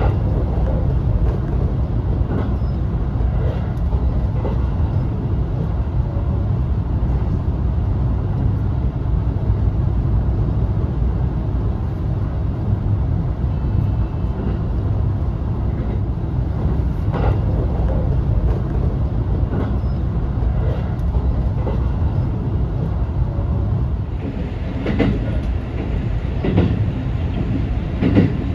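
Resort Shirakami express train running, heard from inside the carriage: a steady low rumble with the clack of wheels over rail joints, several sharper clacks near the end.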